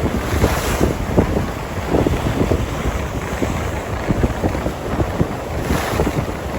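Storm wind gusting and buffeting the microphone with a heavy, continuous rumble. The hiss of a stronger gust rises briefly near the start and again near the end.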